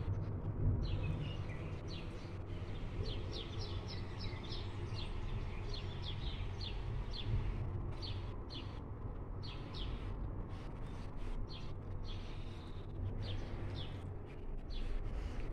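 Small birds chirping, many short high chirps repeating throughout, over a steady low rumble.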